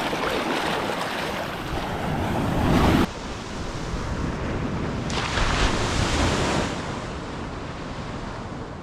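Ocean surf breaking on a beach, with wind buffeting the microphone. The wash swells up and drops off sharply about three seconds in, then a second wave surges in and fades.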